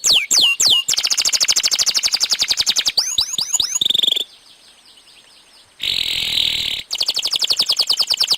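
Canary singing a long, loud song of fast trills and swooping whistled notes. About halfway through it pauses for about a second and a half, then goes on with a buzzy trill and more rapid trills.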